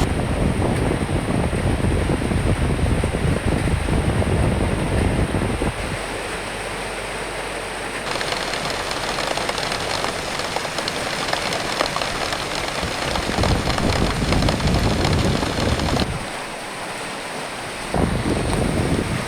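Recorded rain with wind gusting, a dense hiss over a low, buffeting rumble. The texture changes abruptly about eight seconds in, and the rumble drops out for about two seconds near the end before returning.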